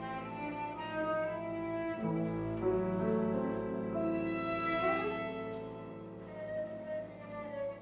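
Live chamber music: violin and cello with piano playing sustained, overlapping lines, with a rising string glide about five seconds in.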